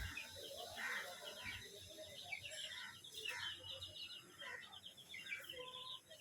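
Many birds chirping continuously in short, quick high notes, with scattered lower calls among them.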